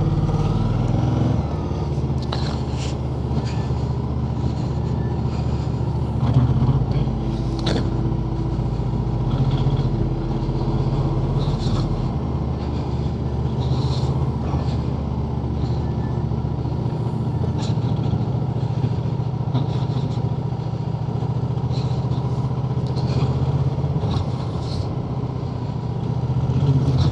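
Motorcycle engine running steadily as the bike rides along, its low note shifting a few times.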